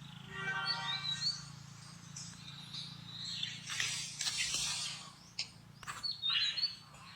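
Rhesus-type macaques giving shrill, harsh screeching calls in two bouts, the first a little after the middle, the second near the end, over a low steady hum.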